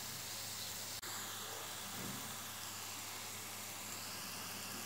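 Syrniki (cottage-cheese patties) sizzling as they fry in sunflower oil in a pan: a steady hiss, briefly broken about a second in.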